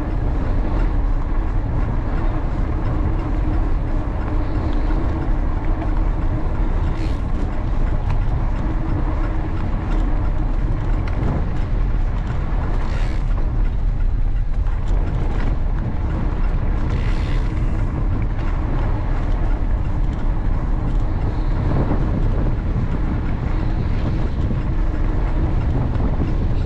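Steady rumble of wind buffeting the camera microphone and tyre noise from a mountain bike rolling along a gravel towpath, with a faint steady hum under it.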